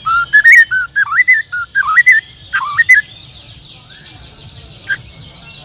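A loud, varied whistled bird song close by in quick phrases for about three seconds, with one more short note near the end. It sounds over a constant chatter of many songbirds chirping.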